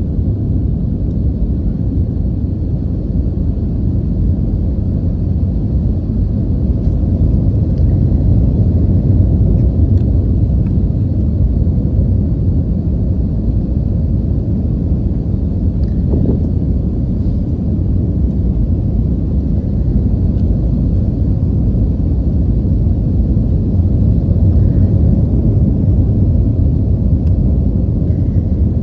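Steady low rumble inside an Airbus airliner cabin: the engines and rushing air heard from a passenger seat, with a few faint ticks and rattles over it.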